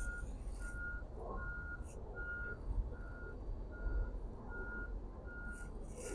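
Vehicle reversing alarm beeping steadily, one high beep about every 0.8 seconds, over a steady low rumble.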